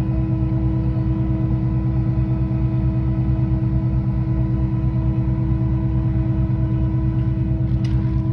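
Concrete pump's engine running steadily, a fast low pulsing beat with a steady whine over it, and a couple of faint clicks near the end.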